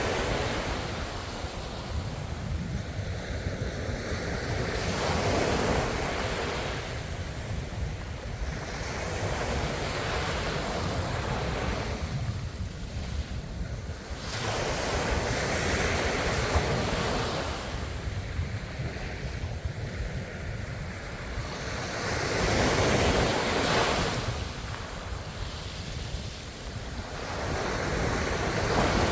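Ocean waves: surf washing in and drawing back, each wave swelling and fading every five to eight seconds, over a steady low rumble.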